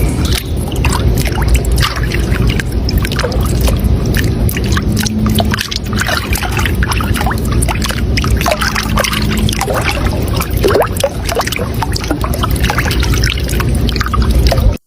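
Running water flowing and splashing: a steady, loud rush full of small splashes, cutting off abruptly at the end.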